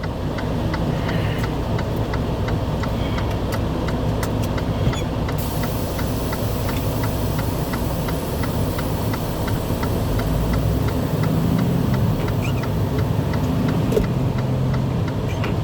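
Steady noise of a car's engine and tyres heard inside the cabin, with a regular light ticking about three times a second.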